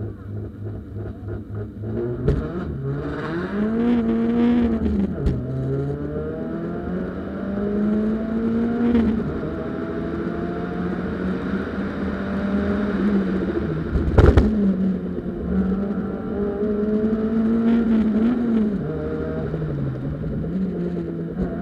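Peugeot 206 1600 rally car's four-cylinder engine, heard from inside the car. It waits at the start line, launches about two seconds in and accelerates hard through the gears, the revs climbing and dropping sharply at each shift. A loud thump about 14 seconds in.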